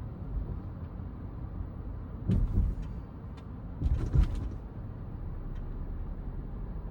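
A car's low, steady rumble, heard while it moves slowly, with two short bursts of knocks and clicks about two and four seconds in.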